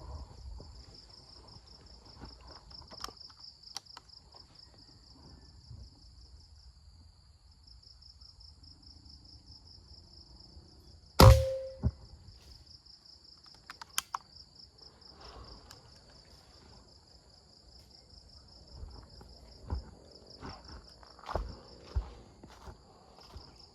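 Insects keep up a steady, pulsing high-pitched chirr. About eleven seconds in comes one sharp, loud shot from a PCP air rifle, followed half a second later by a smaller click. Scattered low knocks and rustles sound in the last few seconds.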